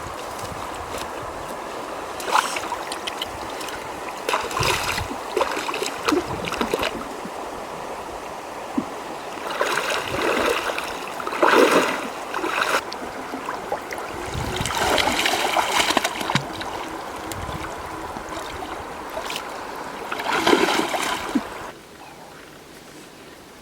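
Running water with bursts of splashing every few seconds; the sound drops away abruptly near the end.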